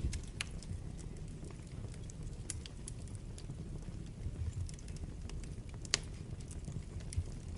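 Wood fire burning in a fireplace: a steady low rumble of flames with irregular sharp crackles and pops from the burning logs, one louder pop about six seconds in.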